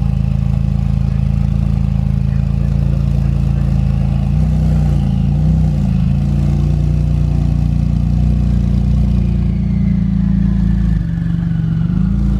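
Supercar engine running with its exhaust valves open: a loud, steady, deep exhaust note, with a short rise and fall in pitch about five seconds in.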